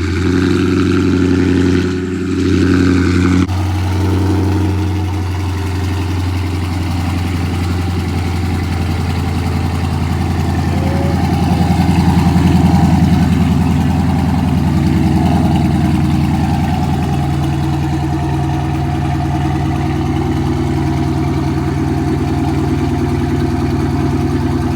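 Dodge Charger Scat Pack's 6.4-litre HEMI V8 idling just after a cold start, with the exhaust note swelling a little about halfway through before settling back.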